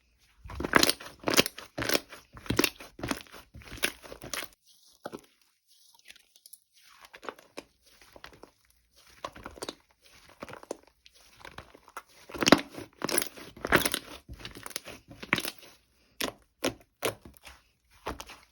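Crinkly material being handled: irregular crackles, rustles and tearing noises, which thin out for a few seconds about a quarter of the way in and then pick up again.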